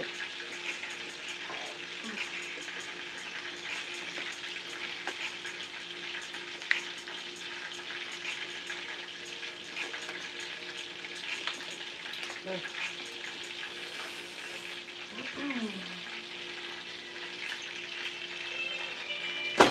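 Chicken frying in a skillet, a steady sizzle with many small crackles over a low, even hum.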